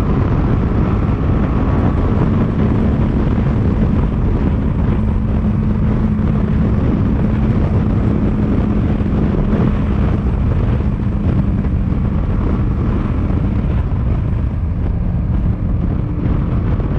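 Motorcycle underway at a steady speed: the engine drones under heavy wind rush on the microphone. A steady hum runs through the middle few seconds.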